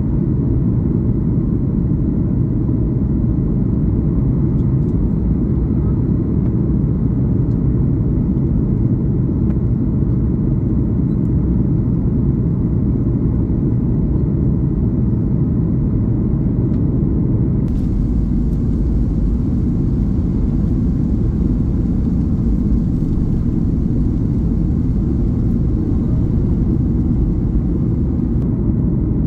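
Boeing 737 cabin noise heard from inside the cabin: a steady, loud low rumble of engines and airflow.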